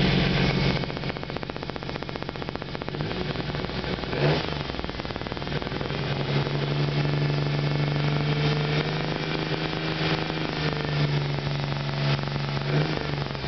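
1991 Geo Metro's three-cylinder engine running soon after a cold start, with a fast light ticking from the valve lifters. About four seconds in the revs rise briefly, and then the engine settles into a smoother, steadier hum. The owner takes this as the oil clearing through so the cam runs right.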